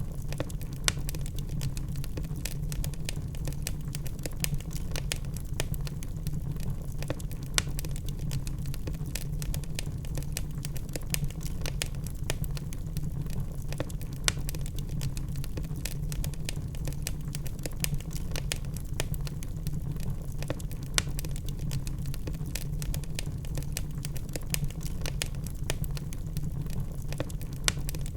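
Wood fire burning in a fireplace: a steady low roar of flames with constant crackling and occasional louder pops from the burning logs.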